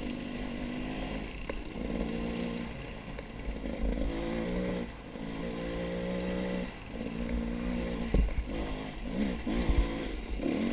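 A motor vehicle's engine running, its pitch holding for a second or two at a time and then shifting up or down, with low wind buffeting on the microphone.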